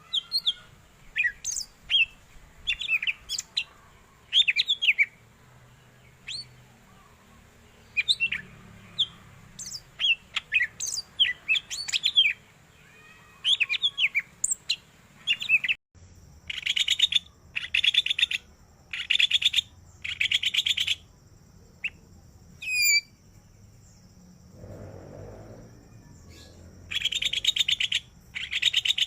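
Yellow-headed cucak ijo (leafbird) singing a varied song of quick whistled notes, chirps and sweeps. After about halfway it switches to a run of rasping, buzzy trills about a second long each, repeated several times, with one more burst near the end.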